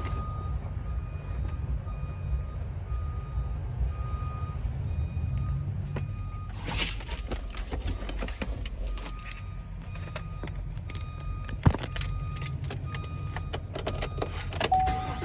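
Pickup truck's warning chime dinging at an even pace, about once a second, over a low steady rumble, with scattered clicks and knocks of handling.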